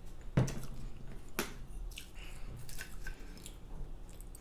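Close-miked chewing and wet, squishy mouth sounds of someone eating soft pancakes, with two sharp smacks about half a second and a second and a half in and fainter clicks after.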